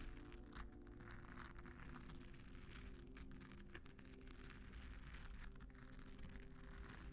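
Scratching on a sequin vinyl mat in faint, irregular scratchy strokes, over soft sustained background music.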